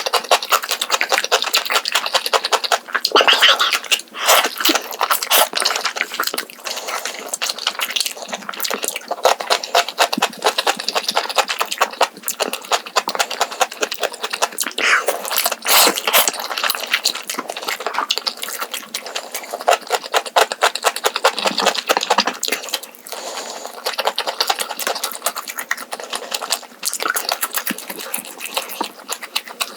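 Close-miked eating sounds: wet chewing and slurping of Chapagetti noodles, a dense run of small mouth clicks with louder slurps every few seconds.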